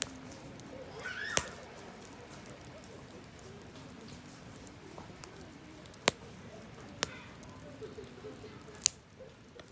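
Wood campfire burning and crackling, with sharp pops about five times and smaller ticks in between.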